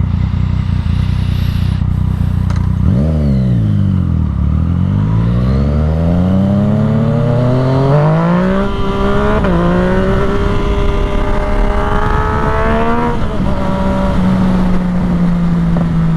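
Yamaha MT-series motorcycle engine accelerating hard, its revs climbing steadily for several seconds with a brief dip about nine seconds in as it shifts gear. The throttle is rolled off about thirteen seconds in and the engine settles to a steady cruise.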